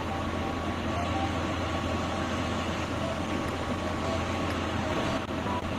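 A vehicle engine running steadily, a low even rumble with no change in speed.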